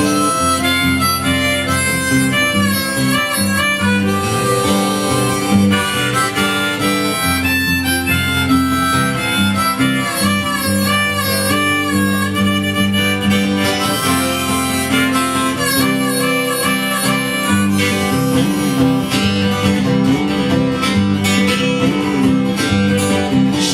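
Harmonica solo over acoustic guitar accompaniment, an instrumental break in a live folk song.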